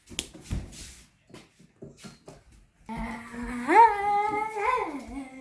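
A voice humming one long note that starts low, rises, holds, then drops back down, preceded by a few light taps and clicks.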